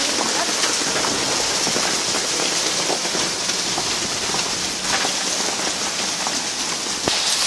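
Heavy rain pouring down: a steady, dense hiss with many small drop ticks.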